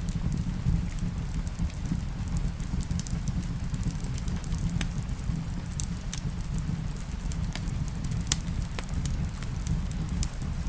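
Wood fire crackling in a fireplace, with irregular sharp pops and snaps over a steady low rumble. Rain falls steadily beneath it.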